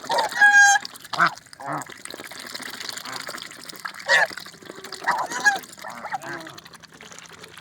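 Domestic geese honking: one loud, clear honk about half a second in, then several shorter, rougher calls, with light sounds of water as they drink from a bowl.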